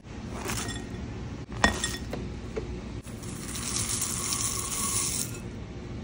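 Dry seeds poured from a measuring cup into a glass mixing bowl: a rattling hiss for about two seconds in the second half. Earlier there is a shorter pour and a single sharp clink against the glass about a second and a half in.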